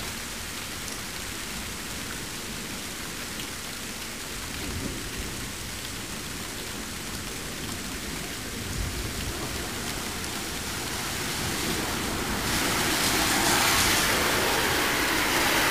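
Heavy rain falling steadily in a severe thunderstorm, with low rumbles of thunder. The rain grows louder about twelve seconds in.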